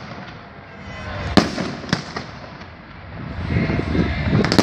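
Fireworks salute: two sharp bangs about a second and a half in, then a low rumble of further bursts that builds toward the end, where a quick run of cracks comes.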